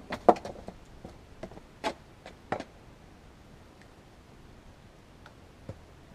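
A few short, sharp clicks and knocks: the loudest comes just after the start, two more near two and two and a half seconds in, then a few faint ticks.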